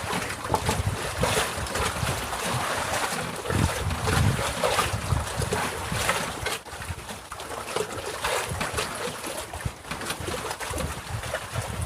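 Wind buffeting the microphone over water slapping against a floating fishing raft, with scattered knocks and splashes.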